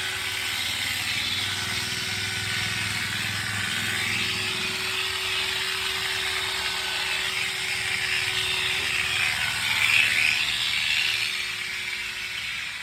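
Electric clippers running steadily while shearing a sheep's wool: a constant motor hum under a cutting noise that swells briefly about ten seconds in.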